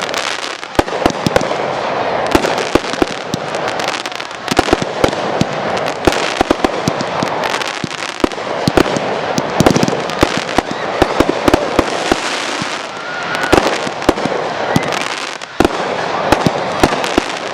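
Fireworks display going off: a dense, continuous run of sharp bangs and crackling shell bursts, many in quick succession.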